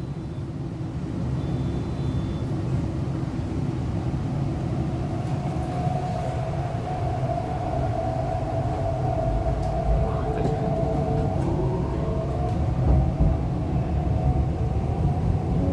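MTR East Rail Line R-Train heard from inside the carriage as it pulls away from a station. A steady low rumble of the train runs throughout. About a third of the way in a whine sets in, and in the second half it rises in pitch as the train accelerates.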